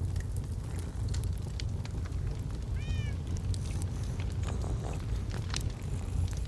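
Log fire crackling with sharp pops over a steady low rumble. About three seconds in comes a single short, high call that rises and falls in pitch.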